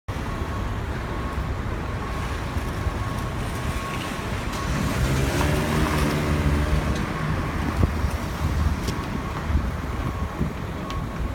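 City street traffic: a steady rumble of road noise, with a vehicle engine passing about five to seven seconds in. A faint steady high tone runs underneath.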